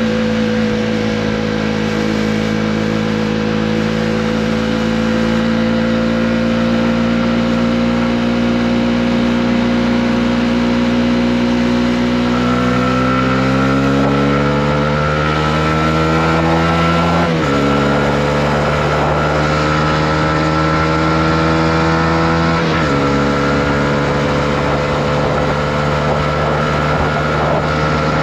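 Honda CB125R's single-cylinder four-stroke engine under way. It runs steadily, then revs up as the bike accelerates. Its pitch drops suddenly twice, at two upshifts, and then it settles into a steady cruise.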